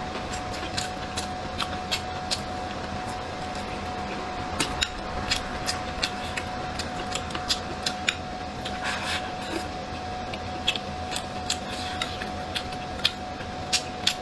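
Close-miked chewing of braised meat: irregular wet mouth clicks and smacks, more frequent toward the end, over a steady background hum.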